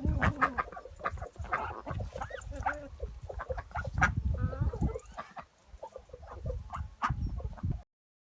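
Ducks and other farmyard poultry calling, many short calls one after another over a low rumble. The sound cuts off abruptly near the end.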